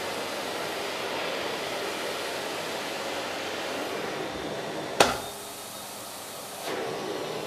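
Karcher vacuum cleaner running steadily with a loud airflow hiss. About five seconds in there is one sharp knock, after which the suction sound drops quieter and duller for a second or two before coming back up.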